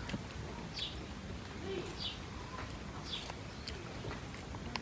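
Faint birdsong: short high chirps falling in pitch, repeating about once a second, with a softer, lower call near the middle.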